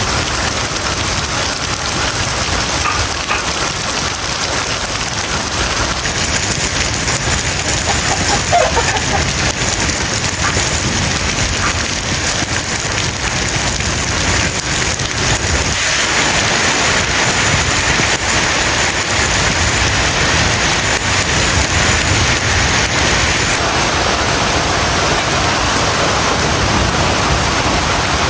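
Heavy rain pouring down in a steady, dense hiss, growing a little heavier about halfway through.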